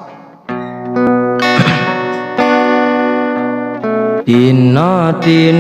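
Music: acoustic guitar plucking notes that ring on. A singing voice comes back in near the end.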